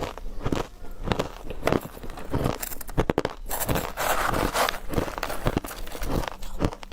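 A person chewing refrozen powdery ice: repeated soft crunches, about two or three a second, with a denser run of crunching a little past the middle.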